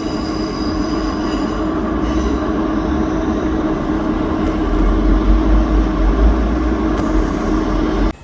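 A train running close by: a loud, steady rumble of wheels on rail with a constant hum and a high wheel squeal that fades out about two seconds in. The sound cuts off suddenly near the end.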